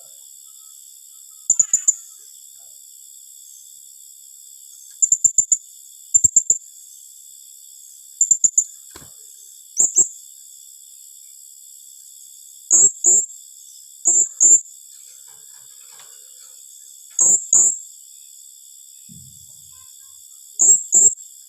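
Blue-crowned hanging parrot (serindit) calling in rapid bursts: short clusters of two to four shrill, very high chirps in quick succession, repeated every one to three seconds over a steady high hiss.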